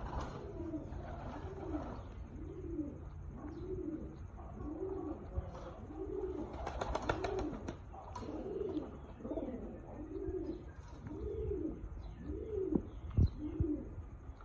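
A pigeon cooing repeatedly, a steady run of rise-and-fall coos a little more than one a second. Faint chirps from small birds sound behind it, and there is a short run of quick clicks about halfway through.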